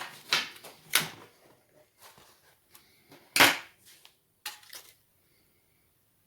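Several sharp clicks and taps from laptop parts and tools being handled during disassembly, the loudest about three and a half seconds in; they stop about five seconds in.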